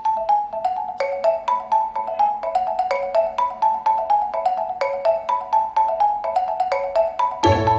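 Background music: a quick, bright marimba-like melody of short struck notes at an even pace, with bass and fuller backing joining near the end.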